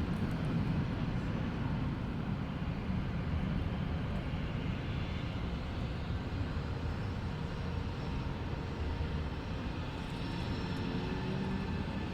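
Jet airliner engines making a steady low rumble, with a faint whine coming in near the end.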